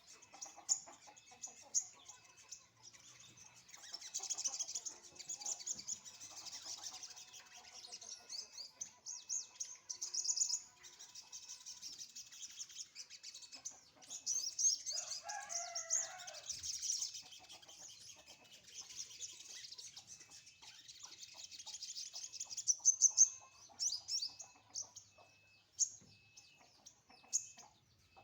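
A songbird chirping and twittering in quick, high, rapid runs almost without pause, with chickens clucking in the background. A louder, lower fowl call, likely a rooster crowing, lasts about two seconds a little past halfway.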